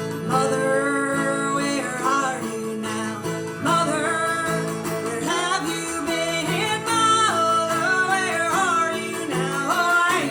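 Bluegrass band playing live, with acoustic guitar and plucked strings under a lead melody line that bends in pitch.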